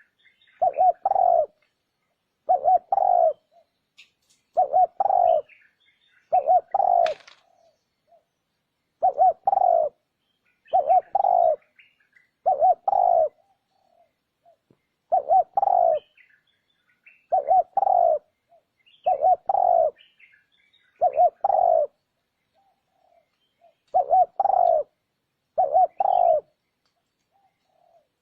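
Spotted dove cooing: a two-note coo repeated about once every two seconds, with a few longer pauses and faint high chirps in between. It is the kind of call played to lure wild spotted doves.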